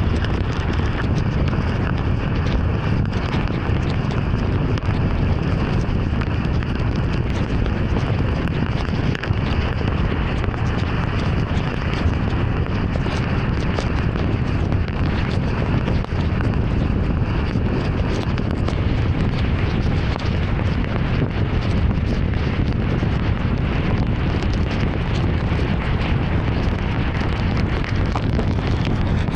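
Heavy rain on a moving car: a steady rush of rain and tyres on a waterlogged road, with a dense scatter of small ticks from drops striking the car.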